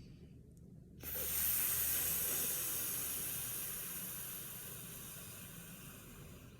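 A woman exhaling a long "fff" through her teeth and lips, a breathing exercise. It starts suddenly about a second in and slowly fades.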